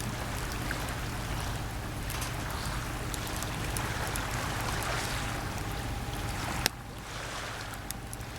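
Small sea waves washing onto the shore, swelling about halfway through, with scattered crackles from a wood campfire and one sharp crack about two-thirds of the way in.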